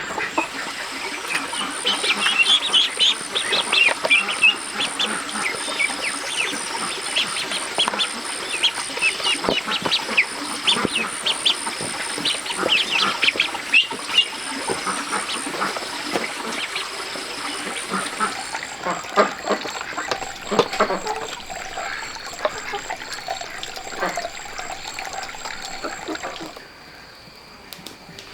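Ducks quacking, many short calls overlapping, busiest in the first half and thinning out toward the end.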